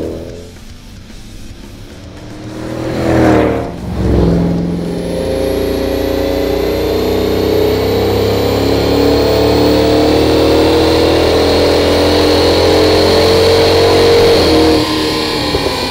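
Supercharged 5.7-litre HEMI V8 of a 2007 Dodge Magnum R/T running through a Flowmaster Super 44 stainless exhaust with X-pipe: the engine note falls off at first, surges loudly and briefly about three seconds in, then holds a long steady pull with pitch slowly rising for about ten seconds before easing off near the end.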